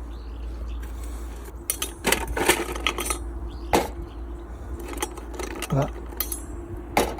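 A string of sharp clinks and knocks from hard objects being handled, clustered in the middle with one more near the end, over a steady low hum.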